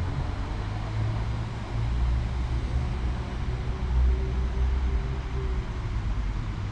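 A train at a station platform running with a steady low rumble, with a faint held tone from about three to five and a half seconds in.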